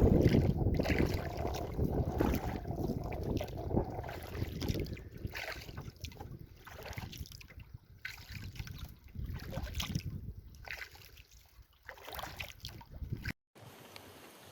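Double-bladed paddle strokes driving a canoe, a soft splash of water about once a second as the blades dip in. Wind rumbles on the microphone at first, and the sound cuts out briefly near the end.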